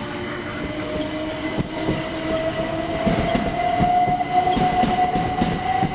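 Electric multiple-unit train running through, its motor whine steady and rising slowly in pitch, with wheels clicking over rail joints from about halfway.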